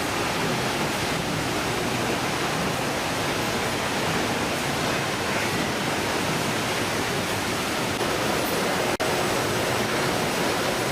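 Steady, even rushing hiss with no rhythm or pitch, cut by a brief dropout about nine seconds in.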